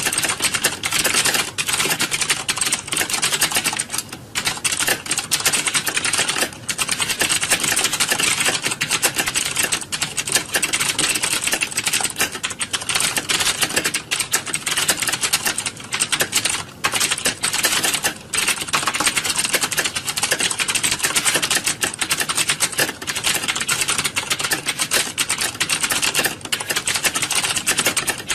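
Many computer keyboards being typed on at once: a dense, continuous clatter of overlapping key clicks, with a few brief lulls.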